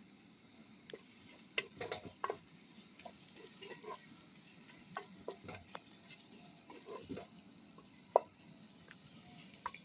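Utensil stirring food in a pan over heat: scattered light clinks and scrapes against the pan at irregular intervals, with faint sizzling underneath.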